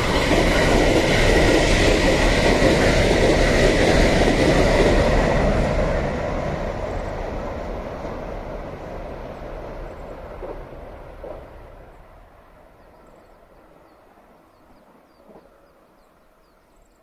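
A JR West Special Rapid electric train passes at speed over a bridge: a loud rush of wheels on rail with a steady high whine. The sound then fades away over about ten seconds as the train recedes.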